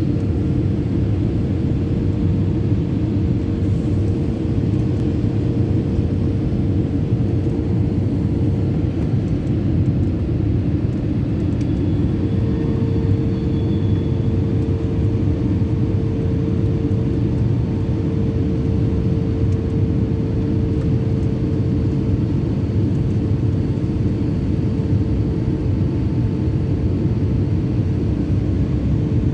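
Airliner's engines and airflow: a steady, loud rumble with a constant hum, unchanging throughout.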